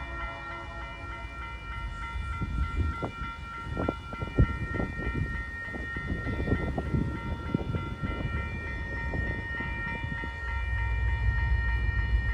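Level crossing warning bell ringing in a fast, even repeat. A run of sharp knocks and clatter comes in the middle, and the low rumble of the approaching TasRail diesel locomotives grows louder near the end.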